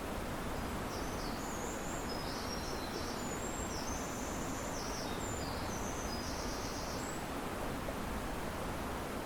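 River water rushing steadily beside trees. A small bird sings a run of short, high chirping notes from about half a second in until about seven seconds.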